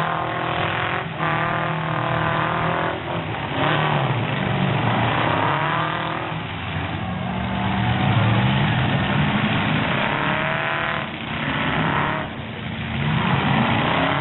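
Several demolition derby truck engines running and revving, their pitch rising and falling repeatedly and overlapping throughout.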